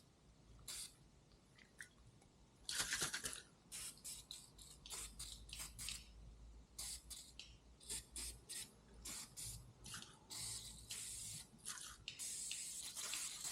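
Aerosol can of Dupli-Color foaming prep cleaner spraying in a series of short hisses onto a motorcycle handlebar, with two longer sprays near the end, degreasing the bar before the grip is glued on.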